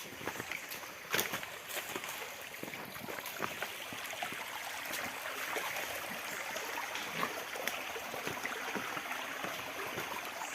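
Stream water running with a steady rush, with a few sharp clicks near the start.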